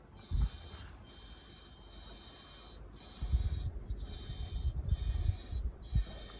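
German railway station clock squeaking in its mechanism as it runs: a high, multi-toned squeal broken by short gaps about once a second.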